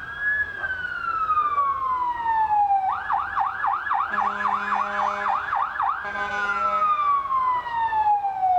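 Emergency vehicle siren: a wail that rises and then falls slowly, switches to a fast yelp of about three to four sweeps a second, and returns to a slow falling wail. A low, steady horn blast sounds twice during the yelp.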